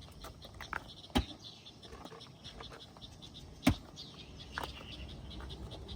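Clatter of the bed platform's adjustable support rods being handled: two sharp knocks, one about a second in and a louder one past the middle, with a few lighter clicks between.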